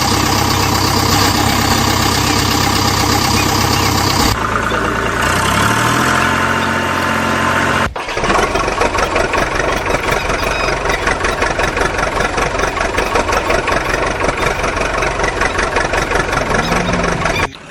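Vehicle engine running steadily, with abrupt changes about four and eight seconds in and a rising rev between them.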